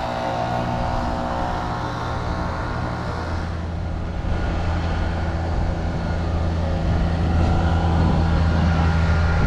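Steady hum of a motor vehicle engine in road traffic, with a higher whine that fades out about three seconds in while the low hum grows louder towards the end.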